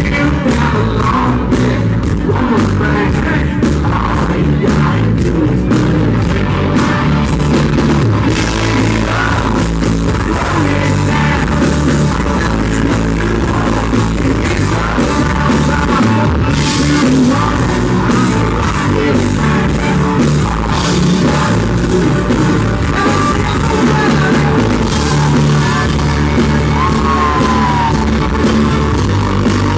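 Country band playing live, heard as a loud, muddy amateur recording: drums, bass and guitar with a singer's voice over the top.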